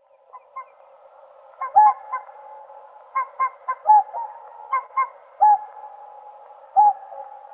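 Whooper swans calling: a series of short, bugling honks in quick clusters, several birds answering one another, with more calling going on steadily underneath.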